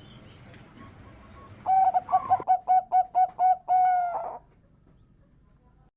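Zebra dove (perkutut) singing one song phrase: a quick run of about seven short cooing notes, roughly three a second, closing on a longer held note. The phrase starts a little under two seconds in.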